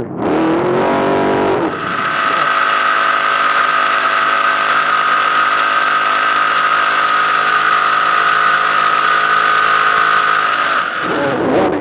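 Trophy truck's engine rising through the revs, then held at one steady speed for about nine seconds with a steady whine on top. The steady sound breaks off shortly before the end.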